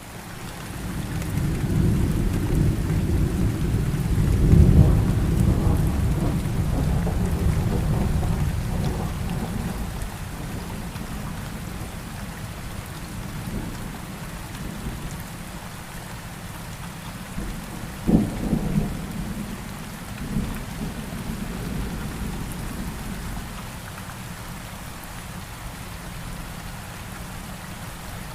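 Steady rain falling, with a long rolling rumble of thunder over the first ten seconds and a sharper crack of thunder about eighteen seconds in.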